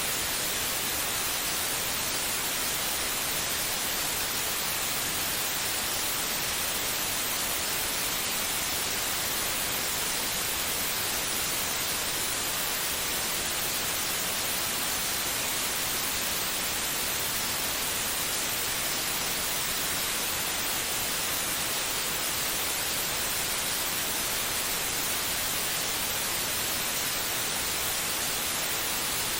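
Steady white noise played to soothe a baby: an even, unchanging hiss, brightest in the high range, with no rhythm.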